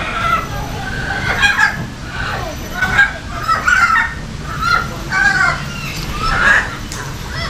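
Parrots calling and squawking, a rapid string of short, bending calls one after another.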